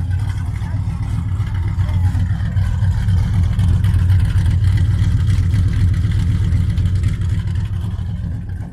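Car engine running loud with a deep low rumble, a dirty noise; it swells a couple of seconds in and drops away near the end.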